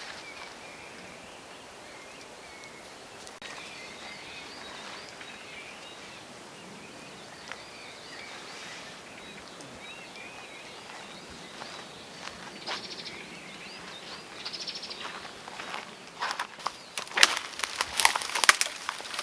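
Songbirds singing in woodland, several warbling calls going on throughout. Near the end, a quick run of sharp, loud snaps and knocks.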